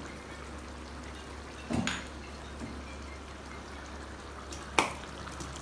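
Chicken gravy simmering in a clay pot, a steady low bubbling hiss, with two sharp knocks about three seconds apart.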